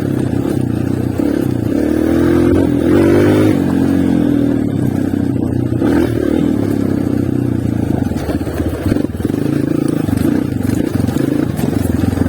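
Honda CRF230 dirt bike's single-cylinder four-stroke engine running under way, revving up about two seconds in and easing back after about three and a half seconds.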